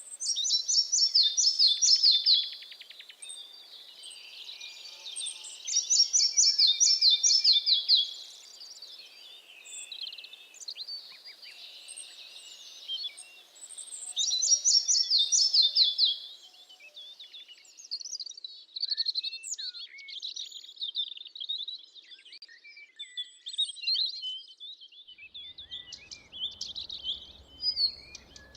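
Songbirds singing outdoors: one bird sings three loud phrases of fast, repeated notes that fall in pitch, each about two seconds long, several seconds apart. From about halfway through, other birds add many short, scattered chirps.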